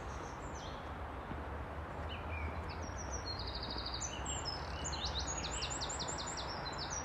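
A small songbird singing rapid trilled phrases, starting about two seconds in. Under it runs a steady outdoor background noise with a low rumble.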